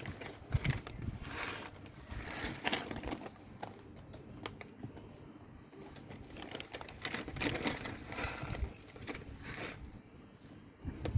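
Young gull pecking at food, its beak tapping and clicking irregularly.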